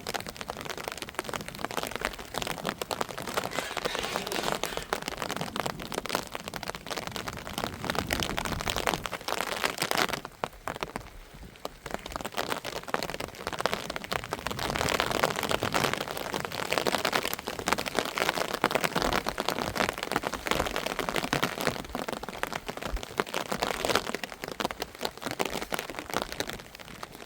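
Heavy rain falling, a dense steady patter of drops. It eases briefly about ten seconds in, then comes back.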